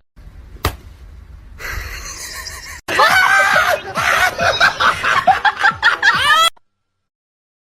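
A person laughing in high-pitched bursts in quick succession, starting about three seconds in and cutting off suddenly after a few seconds, with a single click shortly before.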